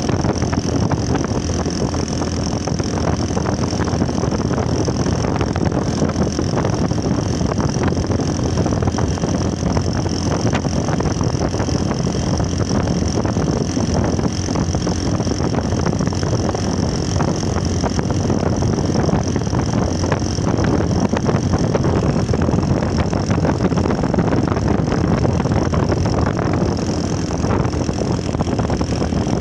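Motorcycle engine running steadily at idle, with no revving or change in speed.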